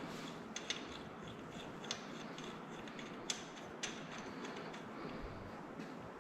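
A few light, scattered metal clicks and ticks of a thread tap being worked by hand in a T-handle tap wrench, re-cutting damaged bolt threads in an engine block.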